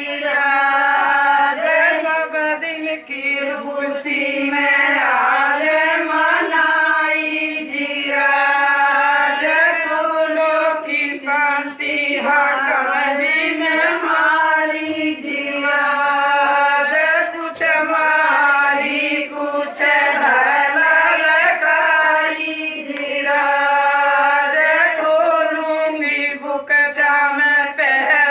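A group of women singing a traditional Gujar wedding folk song together in long, drawn-out phrases.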